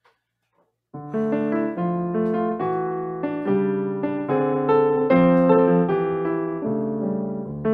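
Near silence, then about a second in a piano starts playing a run of sustained chords, opening the next piece.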